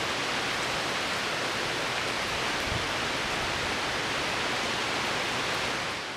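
Heavy rain falling steadily, a dense even hiss that eases slightly near the end.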